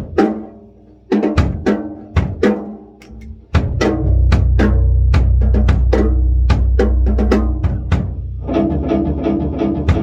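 Rock music played on guitar and drums: a riff of struck chords with drum hits, and a heavy low end that comes in about three and a half seconds in and holds.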